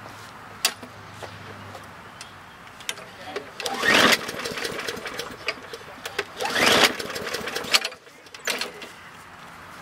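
Recoil starter of a 21-inch Poulan Pro push mower being pulled, with two hard pulls about 4 and 6.5 seconds in and a shorter one near the end; each is a rising whir of the engine turning over, and it doesn't keep running. The no-start is one the owner suspects may come from weak spark.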